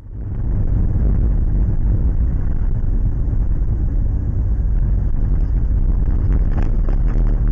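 Steady, loud rumble of a moving car: engine and road noise that starts suddenly and holds at an even level.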